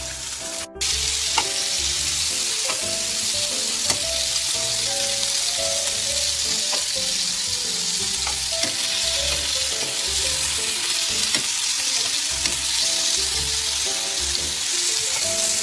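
Pork belly (samgyeopsal) sizzling steadily as it fries in a pan, after a short dropout just under a second in.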